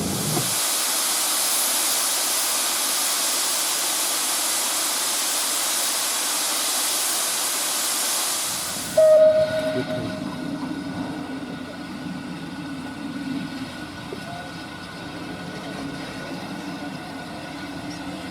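Steam locomotive letting off steam: a loud, steady hiss for about nine seconds that stops suddenly, followed by a brief sharp sound and then a quieter steady hum from the engine.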